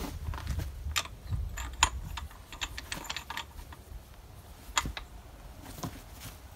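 Scattered metallic clicks and clinks of hand tools on a backhoe hydraulic cylinder as the new piston nut is worked onto the rod, with a low rumble through the first two seconds.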